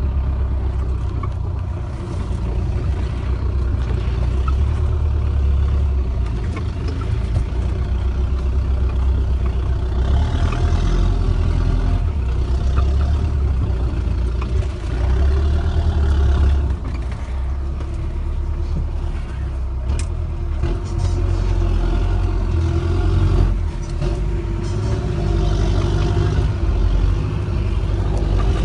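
Off-road 4x4's engine running under load and revving up and down as it crawls over a rutted, muddy track.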